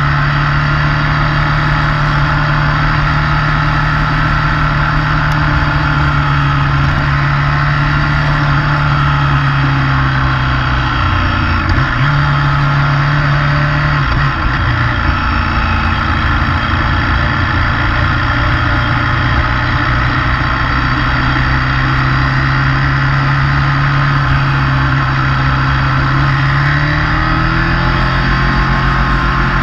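Motorcycle engine running steadily at road speed. Its note breaks and settles lower about 12 to 14 seconds in, then climbs near the end as it accelerates.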